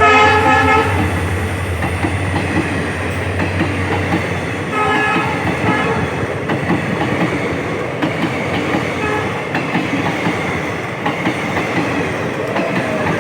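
Train passing through the station, its wheels clattering steadily over the rails, with a low rumble that fades in the first couple of seconds. The train's horn sounds briefly at the start and again in two short blasts about five seconds in.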